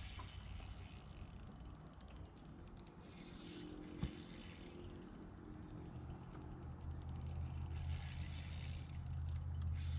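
Electric trolling motor humming with a steady low tone that grows louder from about six seconds in, as the boat follows a hooked fish. A single sharp click about four seconds in.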